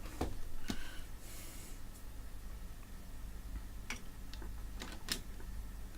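A few sharp light clicks and taps of small parts and tools being handled at an electronics workbench, with a brief soft hiss about a second in, over a steady low hum.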